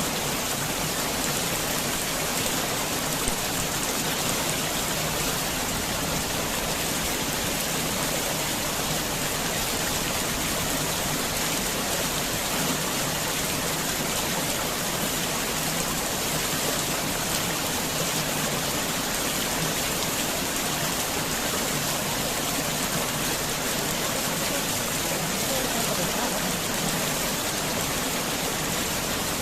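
Heavy rain falling steadily on a garden house, an even hiss of many drops with no thunder.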